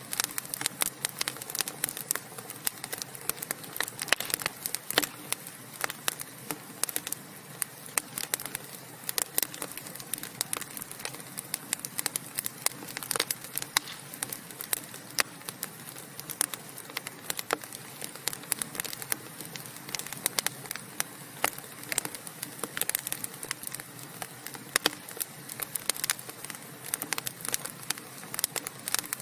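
Wood fire burning in a fireplace, the logs crackling and popping in sharp, irregular snaps over a steady low hiss of flame.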